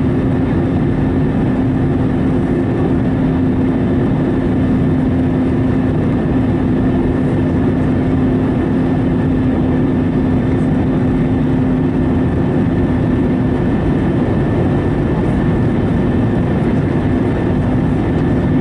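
Airbus A321neo cabin noise on final approach: a steady rush of engine and airflow noise with a constant low hum underneath.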